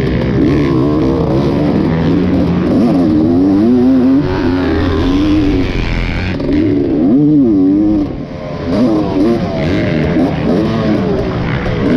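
Dirt bike engine being ridden hard, the revs rising and falling over and over as the rider works the throttle and gears, with a brief drop in level about eight seconds in.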